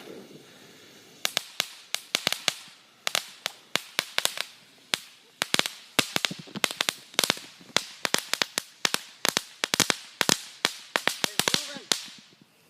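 Crackling strobe firework going off: an irregular series of sharp cracks, a few a second, starting about a second in.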